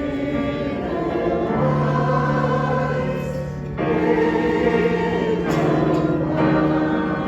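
Choir singing in harmony, holding long chords that move to new notes a few times.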